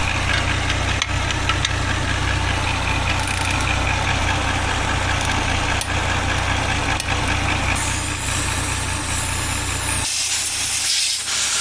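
Porsche Macan S twin-turbo V6 idling with a knock that the mechanic likens to a worn connecting rod. The engine is switched off about ten seconds in, leaving a hiss.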